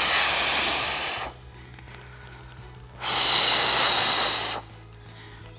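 Two long, forceful breaths, each a loud hiss lasting about a second and a half and about three seconds apart: controlled exercise breathing held through a plank.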